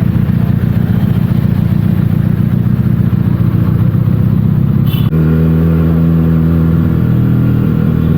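Benelli TNT 300's parallel-twin engine running under way through its stock exhaust. A short click comes about five seconds in, after which the engine note holds steady.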